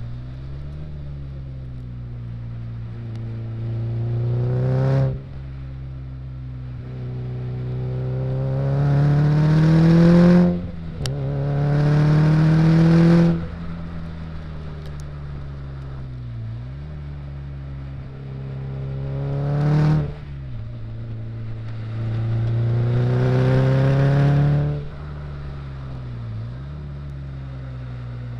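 Car engine heard onboard at full throttle on a circuit, pulling up through the revs again and again with the pitch climbing, then cutting off abruptly as the driver lifts for a corner. Once, about halfway through, the pitch drops at an upshift and climbs again. Between the pulls it drones steadily at lower revs.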